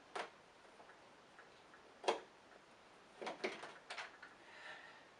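Sharp, separate clicks and taps of hard plastic parts being handled on an upright vacuum cleaner. There is one click near the start, another about two seconds in, and a quick run of several clicks a little past the middle.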